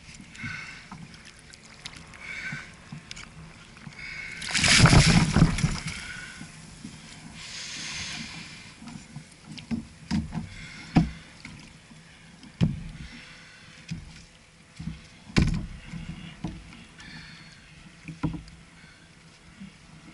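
Water splashing and lapping against a fishing kayak's hull, with a louder rush of water about five seconds in and sharp knocks on the hull now and then.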